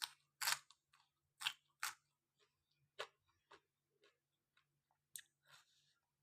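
Close-up eating sounds from a person chewing rice noodles in curry: about eight short wet mouth clicks and smacks, unevenly spaced, over a faint steady low hum.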